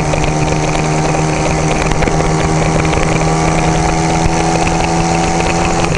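Homemade motorcycle's engine running at a steady speed while riding, with wind noise on the microphone. The engine tone holds even throughout, and the owner says it's running good.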